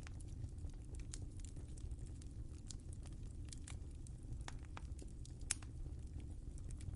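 Wood fire crackling in a fireplace: irregular sharp pops and snaps over a steady low rumble of the flames, with one louder pop about five and a half seconds in.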